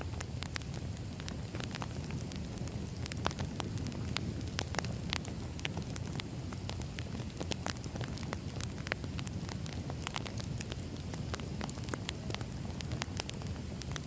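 Burning firewood crackling: a steady low rumble with frequent irregular sharp pops and snaps.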